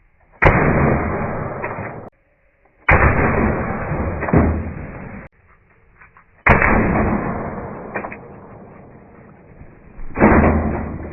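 Four heavy bangs from the Umarex TP50 .50-calibre air pistol firing at targets, each with a long fading tail, spaced a few seconds apart.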